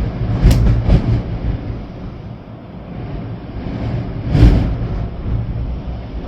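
Storm-force wind gusting and buffeting the microphone in a deep, continuous rumble. Sharp gusts come about half a second in, again at one second, and the loudest about four and a half seconds in.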